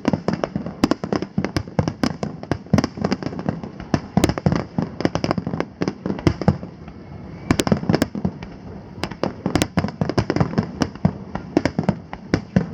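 Aerial firework shells bursting in rapid, dense succession, with many sharp bangs overlapping; the barrage thins briefly a little past the middle, then picks up again.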